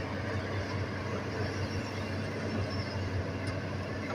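Hitachi excavator's diesel engine running steadily with a low, even hum.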